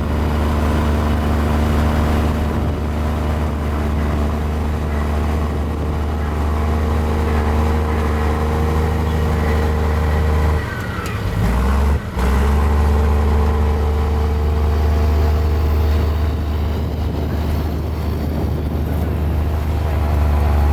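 Mini Komatsu bulldozer's diesel engine running steadily under work. About halfway through, the engine note dips, glides back up and cuts out for a moment before settling again.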